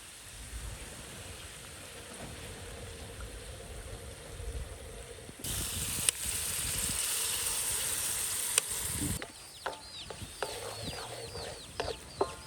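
Food sizzling in hot oil: a loud hiss starts suddenly about five seconds in and cuts off about four seconds later. Then birds chirp, many quick falling chirps, with scattered clicks.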